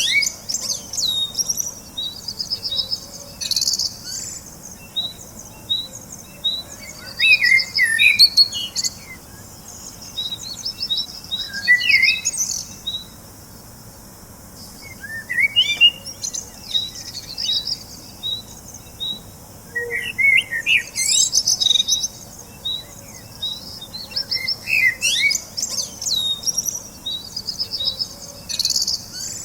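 Small birds chirping and twittering: a steady run of short, high repeated chirps, with bursts of rapid trills and quick sweeping notes every few seconds.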